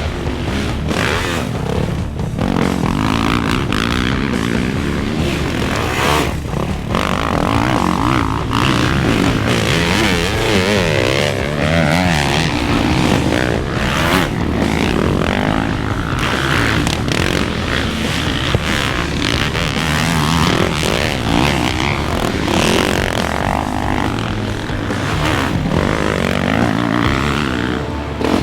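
Off-road racing dirt bike engines revving hard, pitch rising and falling as the riders work the throttle and shift, with several bikes overlapping.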